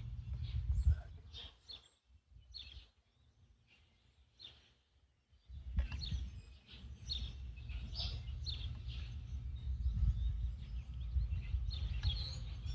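Small birds chirping repeatedly over a steady low rumble; the rumble drops away for a few seconds near the middle and then comes back.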